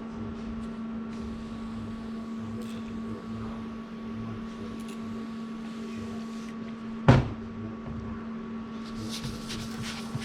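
Steady machine hum, with one sharp knock about seven seconds in and a run of light clicks near the end.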